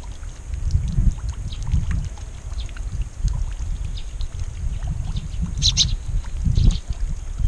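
Wind rumbling on the microphone, with many short, high bird chirps scattered through it and a louder cluster of chirps about six seconds in.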